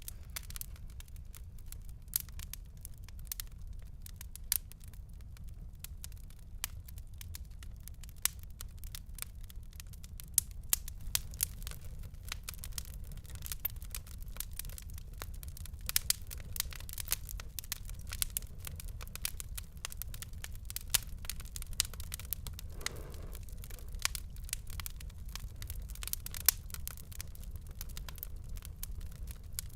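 Wood fire burning in a fireplace: irregular sharp crackles and pops, some much louder than others, over a steady low rumble. A brief soft hiss comes about three quarters of the way through.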